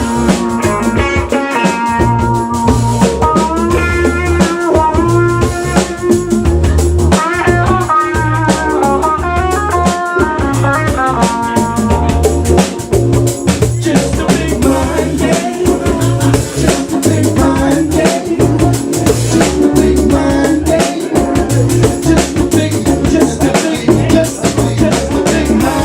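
Live band playing an instrumental passage: electric guitar lines over bass and drum kit, the guitar melody prominent in the first half.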